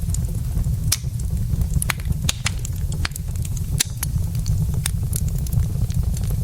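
Wood logs burning in a fireplace, crackling with irregular sharp snaps and pops over a steady low rumble.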